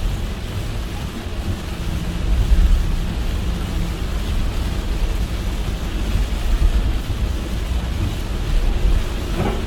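Car driving in heavy rain: an even hiss of rain and tyres on a wet road over a deep, steady road rumble. A brief swish comes near the end.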